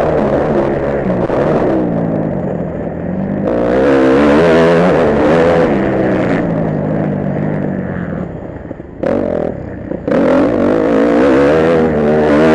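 Motocross bike engine running under load, its pitch rising and falling as the throttle is worked. It drops away briefly about nine seconds in, then picks up again.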